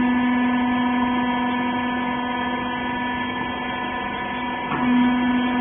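Electric-motor hydraulic pump of a wiper baler running with a steady hum. About 4.7 s in the tone breaks briefly with a click, then carries on.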